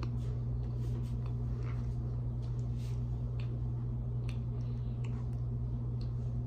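Chewing a mouthful of cornstarch: soft, irregular clicking and squishing mouth sounds, over a steady low hum.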